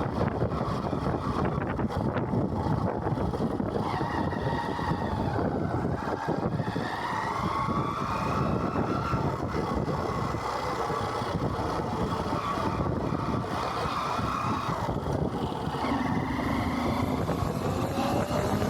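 Honda CBR motorcycle on the move: the engine runs under a steady rush of road and wind noise, its pitch rising several times as it accelerates.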